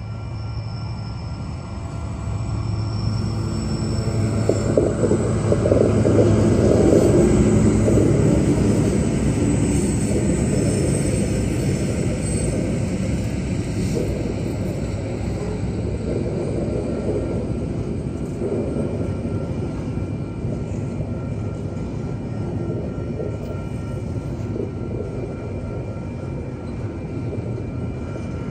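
Diesel-electric freight locomotives passing close by, their engines loudest about six to eight seconds in, followed by the steady rumble and rattle of loaded log wagons and container wagons rolling over the crossing. A level-crossing warning bell rings steadily underneath.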